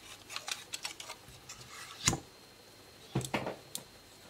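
Scattered light clicks and taps from laptop parts being handled, the loudest about two seconds in and a short cluster just after three seconds.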